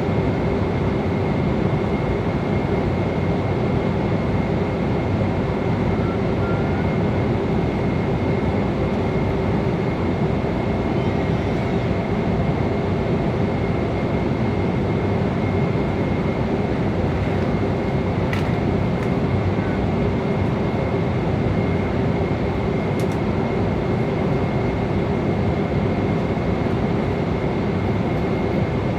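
Steady rushing noise in an airliner's cabin in flight, with a low hum and a thin constant whine from the engines and airflow. Two faint ticks come through, one about eighteen seconds in and one about twenty-three.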